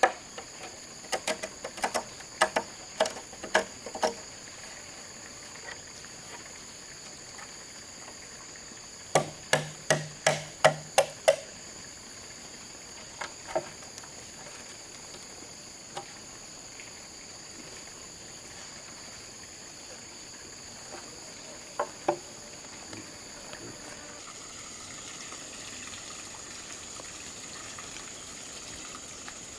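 Sharp knocks of a tool striking bamboo, in two quick bursts of about eight to ten blows each, then a few single knocks. A steady high insect drone runs underneath.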